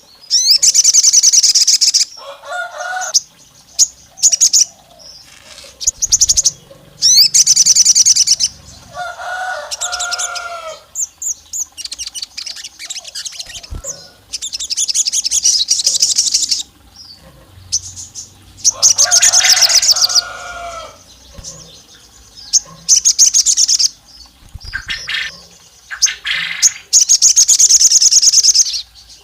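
A sogon songbird singing in loud bursts of very rapid, high-pitched chattering trills, each lasting a second or two, repeated every few seconds; several bursts have lower, clear whistled notes underneath. This is the agitated, full-volume song of a bird in top form, used as a lure call to provoke rival males.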